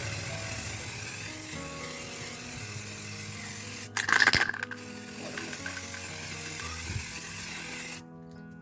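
Aerosol spray paint hissing steadily, broken about four seconds in by a brief loud rattle, and cutting off suddenly near the end; background music plays throughout.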